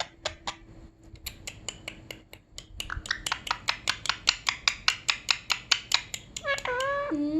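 A rapid series of sharp, hard taps or clicks, about five a second, growing louder over the first couple of seconds. A high-pitched voice calls briefly near the end.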